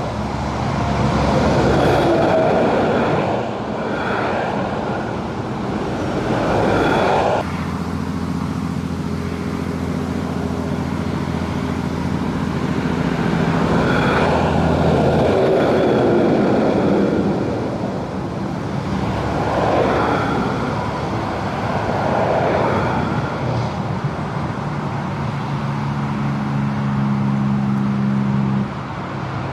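Trucks and cars passing one after another over a road bridge, their tyre and engine noise swelling and fading with each pass, with a steady low diesel engine drone at times between them.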